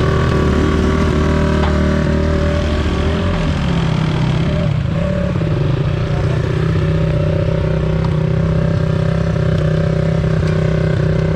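Enduro dirt bike engine running under way. The engine note shifts about three to five seconds in, then holds steady.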